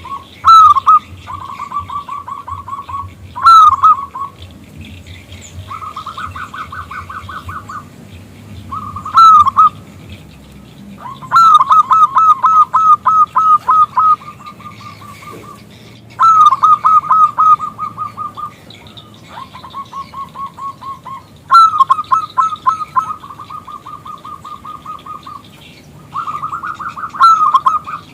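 Zebra dove (perkutut) cooing in repeated phrases. Each phrase is a rapid run of short staccato notes at a fairly steady pitch, lasting one to three seconds and often opening with a louder note, with short pauses between phrases.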